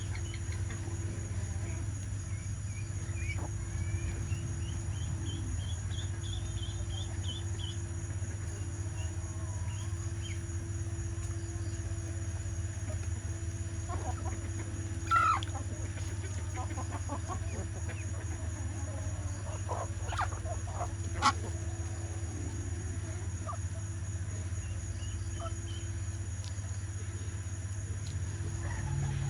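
Chickens clucking and calling during feeding, with a run of short high calls in the first several seconds and a couple of sharp clicks about halfway through, over a steady low hum.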